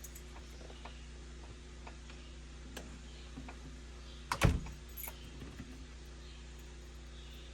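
A newly hung cabin door being tried: faint clicks and rattles of its hardware, then one sharp knock about four and a half seconds in as it shuts, followed by a few lighter rattles, over a steady low hum.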